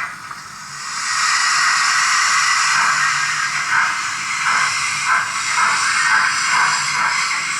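Roco BR 01 H0 model steam locomotive's digital sound playing a steady steam hiss, with exhaust chuffs pulsing through it about two a second from about halfway.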